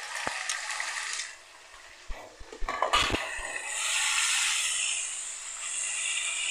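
Garlic-ginger paste and sliced onions sizzling in hot ghee in a wok. About two seconds in a spatula knocks and scrapes against the pan a few times, then a louder, steady sizzle as the paste is stirred through the oil.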